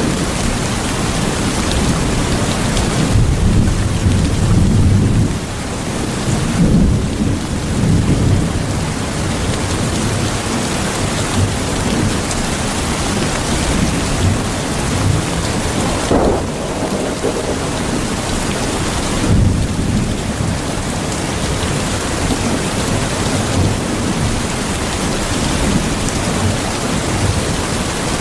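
Steady heavy rain falling on surfaces, with low rolls of thunder swelling a few times, most strongly in the first several seconds and again about two-thirds of the way through.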